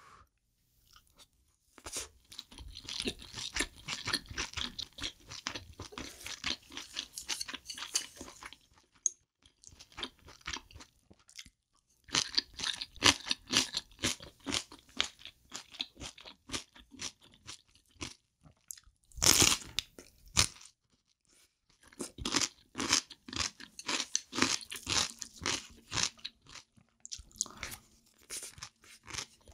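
Close-miked chewing of a mouthful of octopus and abalone fried rice: crunchy, moist chewing in runs of several seconds with short quiet pauses between. The loudest bite comes about two-thirds of the way through.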